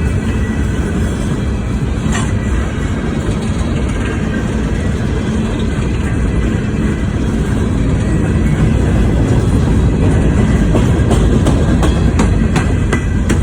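CSX freight train rolling past: a steady low rumble of the cars on the track, with sharp clicks of wheels over rail joints, bunched together near the end.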